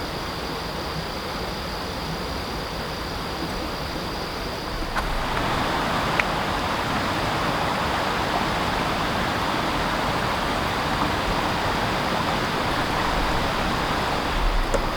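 Steady rushing water noise, becoming louder about five seconds in.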